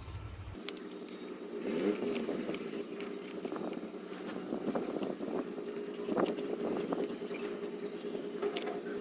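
Short metallic clicks and clinks of hand tools working on a motorcycle engine's side cover as it is unbolted and removed, over a steady hum.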